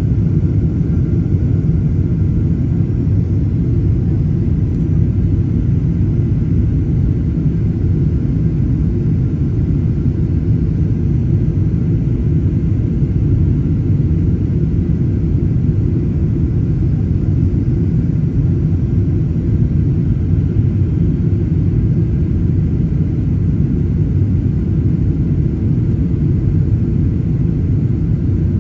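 Steady low rumble inside the cabin of a Boeing 737-800, its CFM56-7B jet engines running, unchanging throughout.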